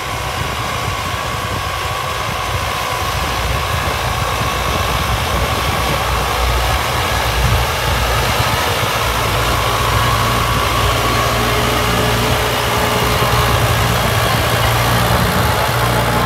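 Tümosan 8095 tractor's diesel engine running steadily, growing slightly louder over the span.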